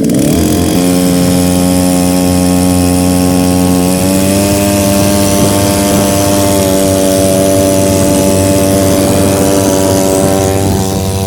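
Small Chinese-made engine running with no resonator on its exhaust. Its speed shifts in the first second, then holds steady, picks up slightly about four seconds in, and drops just before the end.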